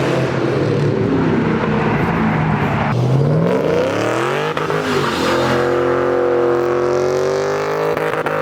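Supercharged 4.6-litre 3-valve V8 of a Mustang GT running through a Borla S-Type exhaust. It runs steadily at first, revs up sharply about three seconds in, and holds at high revs.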